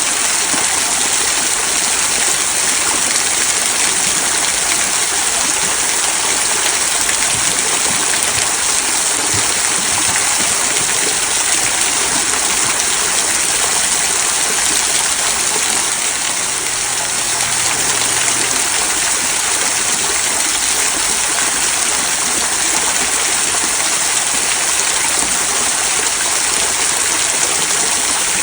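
Small rock waterfall trickling down stones into a stream: a steady, even rush of water that eases slightly for a moment about sixteen seconds in.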